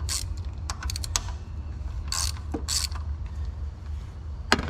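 Socket ratchet clicking in short runs as 10 mm bolts are loosened, with a sharp metallic click near the end, over a steady low hum.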